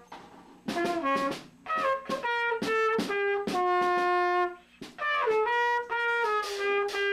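A brass instrument playing a simple tune: a run of short notes, a long held note about three and a half seconds in, a brief break, then more notes with longer held tones.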